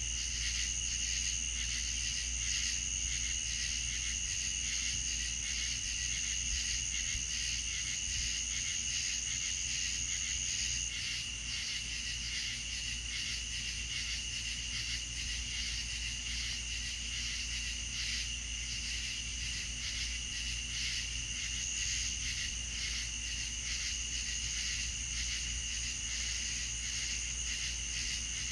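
Steady insect chorus: continuous high-pitched trilling at two pitches, with a low steady rumble beneath. The highest trill stops about ten seconds in and comes back near the end.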